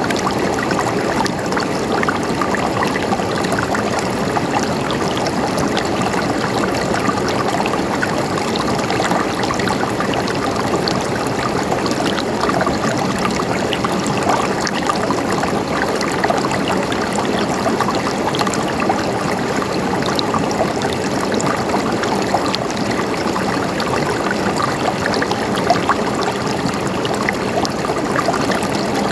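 Water flowing and gurgling in a small stream: a steady, even rush with small splashes and trickles running through it.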